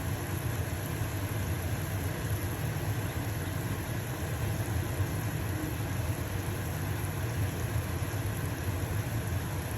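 Stove-top range hood fan running with a steady low hum, over the even hiss of a pancake sizzling in a frying pan.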